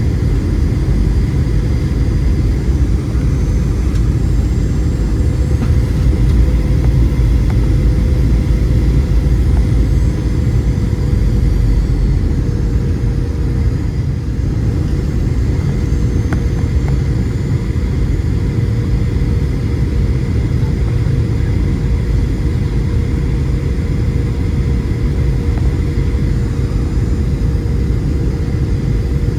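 Steady cabin noise aboard a Boeing 737-700 jetliner: a loud, even rumble from the jet engines and airflow, with a constant mid-pitched hum running through it.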